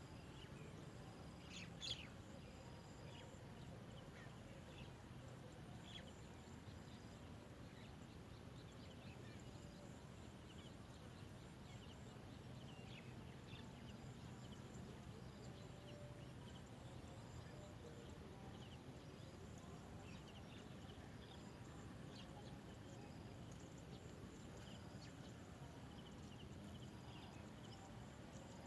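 Near silence: faint steady background noise with scattered faint short bird chirps, one a little clearer about two seconds in.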